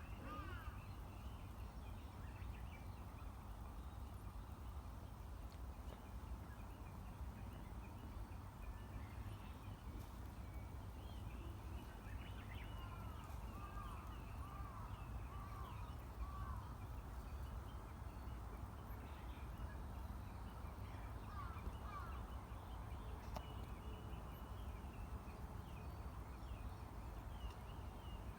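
Faint outdoor ambience: a steady low rumble with distant bird calls. A bird gives a short run of repeated calls about halfway through, and more calls come near the end.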